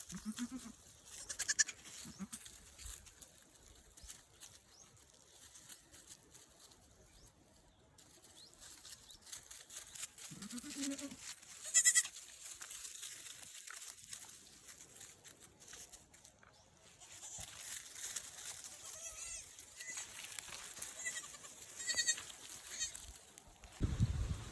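Goats bleating now and then at a low level: a short low bleat at the start and another about ten seconds in, with thinner, higher calls scattered through.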